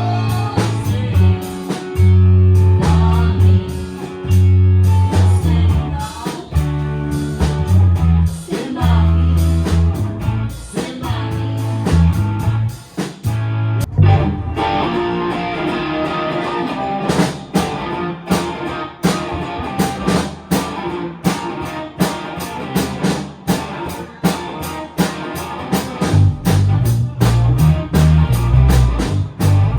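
Live rock band playing a song: guitar and drum kit keep a steady beat over a strong bass line, and the arrangement changes about halfway through.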